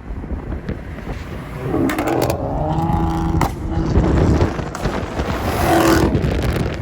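Car engines running, with a steady pitched engine note that swells twice: once about two seconds in and again near the end.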